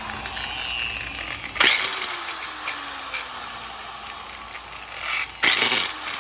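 Angle grinder switched on in two short bursts, about a second and a half in and again near the end, each time spinning down with a slowly falling whine. It makes a strange noise from an internal fault, bad enough that it is not run any longer for fear of further damage.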